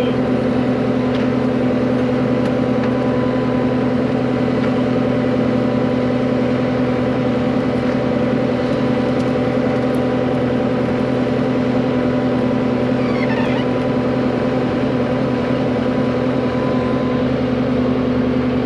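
Diesel engine of the machine pulling a water line plow, running steadily under load as the plow cuts the pipe into the ground.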